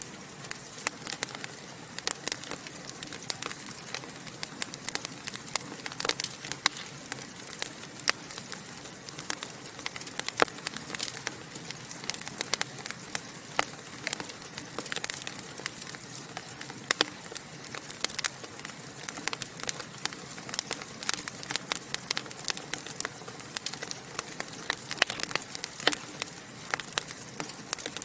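Wood fire in a fireplace crackling and popping, with many sharp irregular pops over a steady hiss.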